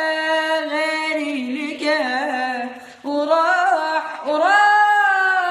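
A solo voice singing an Arabic song unaccompanied, drawing out long ornamented notes without words. The voice breaks off briefly about three seconds in, then returns with a long held note that rises and stays high near the end.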